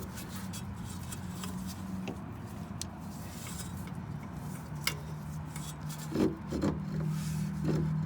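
Hand work on a car's front suspension: scattered light clicks and rubbing of metal parts and tools, a sharp click about five seconds in and a few duller knocks near the end, over a steady low hum.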